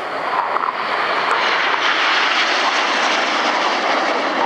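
BAE Hawk T1 jet trainers flying past, their Adour turbofan engines making a broad rushing jet noise that swells about a second in and then holds steady.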